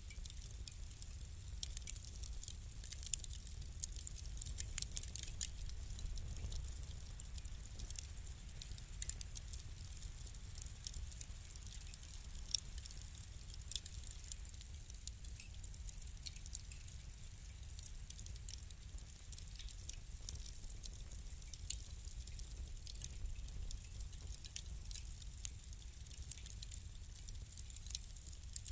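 Wood fire crackling in a fireplace: a rapid, irregular scatter of small sharp snaps and pops over a steady low rumble.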